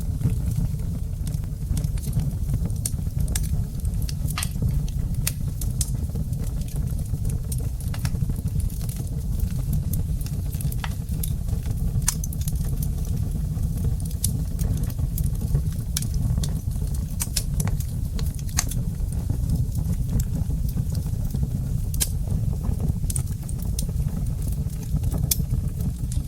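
Wood fire crackling in a fireplace: irregular sharp snaps and pops, several a second, over a steady low rumble of the burning logs.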